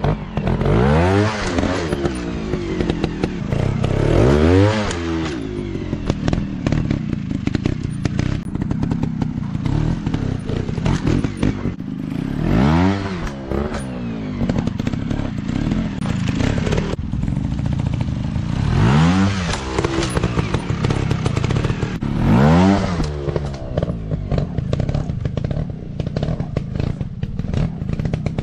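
Small dirt bike engines revving in repeated bursts of throttle, each rising and then falling in pitch, about six times, over a steadier engine note, with clattering and scraping throughout.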